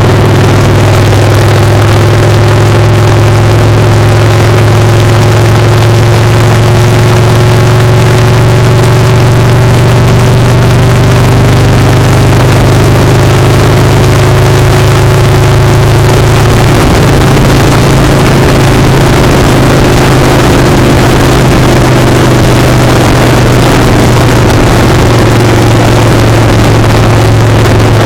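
Motorcycle engine running steadily at riding speed, heard very loud and close from a foot-peg-mounted camera. Its pitch creeps up, then shifts a little over halfway through.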